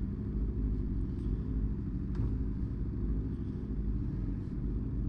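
Aprilia Tuono motorcycle engine running steadily with a low rumble, with no revving up or down.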